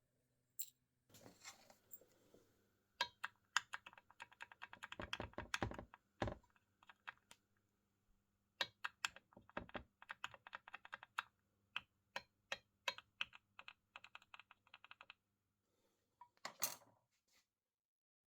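Faint runs of rapid, light clicking with a few sharper knocks, stopping and starting several times.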